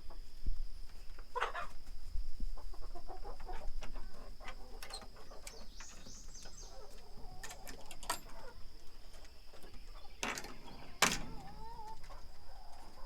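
Young hens clucking in short wavering calls, with a few sharp knocks and rattles in between and a steady high tone throughout.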